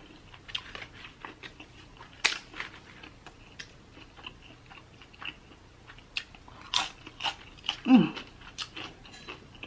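Close-up mouth sounds of someone eating: wet chewing and lip smacking with sharp crunching bites, the loudest about two seconds in and near seven seconds. A short hum of the voice about eight seconds in.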